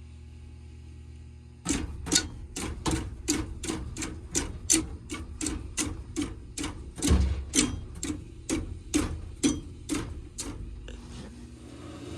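Carrier gas furnace's draft inducer motor powered with its safety bypassed: a low hum starts about a second and a half in with an even clicking, about two and a half clicks a second, which stops near the end. The technician judges the inducer motor shot.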